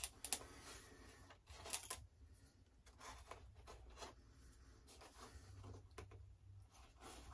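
Faint handling noise from hands working on small parts at a workbench: a few light, sharp clicks and scrapes, the two loudest in the first two seconds, over low room hum.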